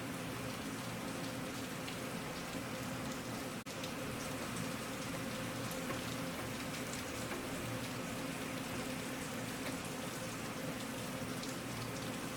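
Steady rain falling, an even hiss with a dense patter of individual drops. A brief dropout about three and a half seconds in.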